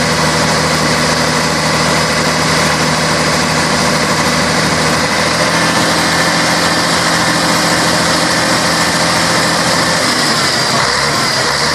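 Scania K113 bus's six-cylinder diesel engine running steadily at a low, even speed; about ten seconds in its pitch shifts and begins to rise.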